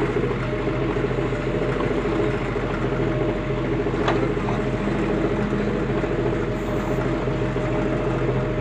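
Heavy diesel engine running steadily, with one sharp knock about four seconds in.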